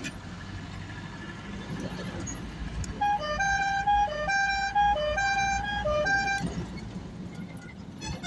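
A musical vehicle horn plays a short tune of alternating higher and lower notes, starting about three seconds in and lasting about three and a half seconds, over a steady low vehicle rumble.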